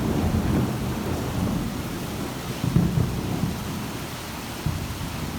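Heavy rain pouring steadily, with a low rumble of thunder underneath that swells and fades.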